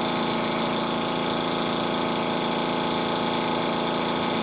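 Tuxing high-pressure air compressor running with a steady, even hum as it nears the end of filling a tank at about 4,000 psi.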